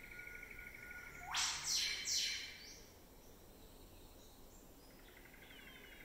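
Rainforest field recording: a bird gives three loud, noisy calls in quick succession about a second and a half in. A steady pulsing insect trill runs under it, fading out before the calls and coming back near the end.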